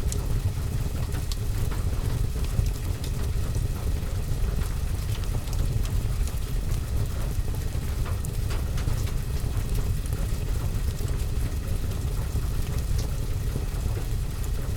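Steady rain on a roof and window, heard as an even low rumble, with a few faint crackles from a wood fire.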